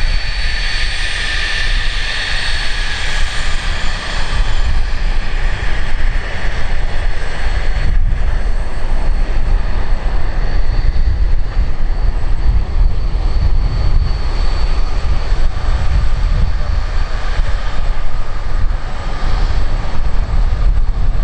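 Jet airliner's engines running, with a high whine that is strongest over the first few seconds and then fades, over a steady deep rumble.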